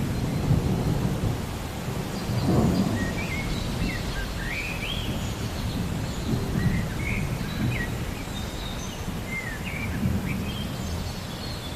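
Relaxing nature-sound ambience: a low, surging rumble like distant thunder, with birds chirping in short rising and falling notes over it.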